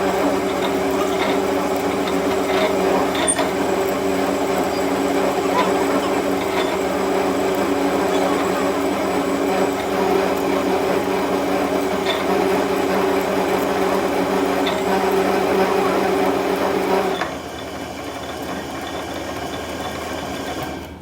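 A workshop machine's motor running steadily with a constant hum, then shut off about 17 seconds in, leaving a fainter steady hum.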